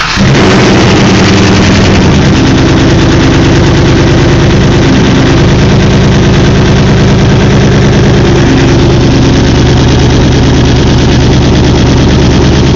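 An engine idling steadily, very loud and close.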